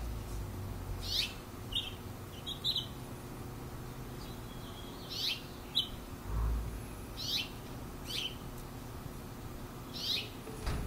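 A songbird repeating short, high chirps that drop in pitch, one every second or two, some followed by a quick second note.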